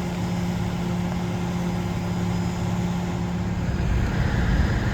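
Heavy truck engines running steadily with a droning hum. About four seconds in, the sound turns louder and rougher in the low end.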